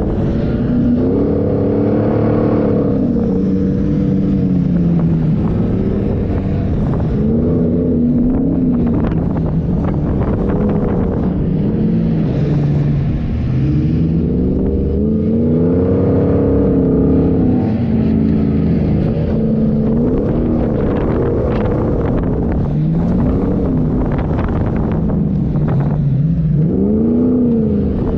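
A 4x4's engine revving up and down again and again as it is driven hard over sand, over a constant low rumble.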